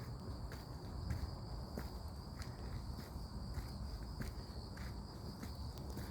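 Footsteps walking along a forest path at an even pace, about one step every half second or so, under a steady high-pitched insect chirring.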